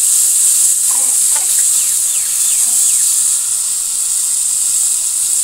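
Boiled taro pieces frying in hot mustard oil in a metal wok: a steady, loud sizzle. A few faint short chirps come through between about one and three seconds in.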